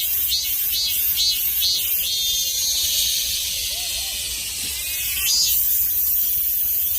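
Male robust cicada (Hyalessa fuscata) singing: a run of pulsed notes about two and a half a second, which about two seconds in merge into one long drawn-out note that sinks slightly in pitch, before pulsing starts again near the end. This is the male's call to attract a female.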